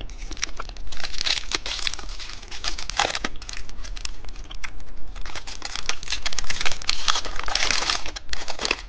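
Candy packaging being crinkled and torn open by hand, a continuous irregular crackling with many sharp crisp snaps.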